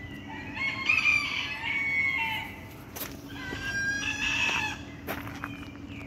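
A bird calling twice, each call drawn out and pitched. The first runs close to two seconds from just under a second in, and a shorter second call comes about three and a half seconds in.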